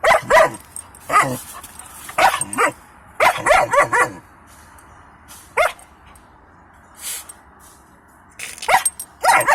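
German Shepherd puppy barking in short, irregular bursts of one to several barks, with pauses between them, close by inside a truck cab.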